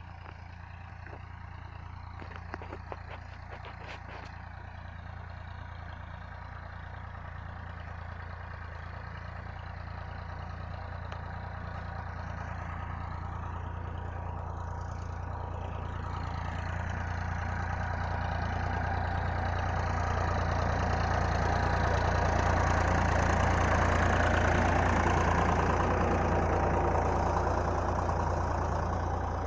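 Tractor engine running steadily while pulling a plough, gradually growing louder as it draws closer, loudest about 24 seconds in and then easing off a little. A few sharp clicks about three seconds in.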